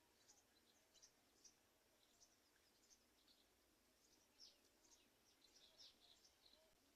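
Faint, quick high-pitched bird chirps, scattered irregularly over a near-silent background.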